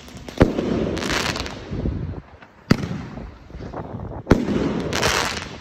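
Three sharp bangs about two seconds apart, each followed by about a second of rushing noise.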